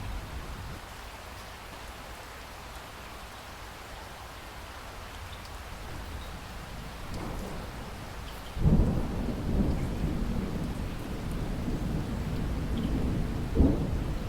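Steady rain with a low background rumble. A little over halfway through, a clap of thunder breaks suddenly and rolls on, with another sharp crack near the end.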